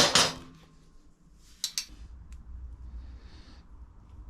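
Metal clinks of hand tools and fasteners during work on a motorcycle's top engine mount. A sharp clank with a brief ring comes at the start, a pair of lighter clicks just under two seconds in, and a faint rustle later.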